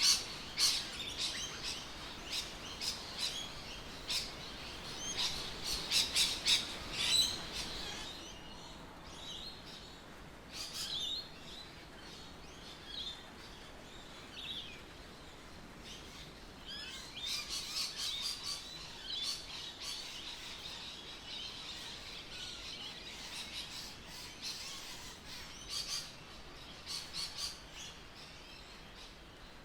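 Birds chirping and calling, many short notes overlapping, busiest in the first several seconds and again about two-thirds of the way through, over a faint outdoor background.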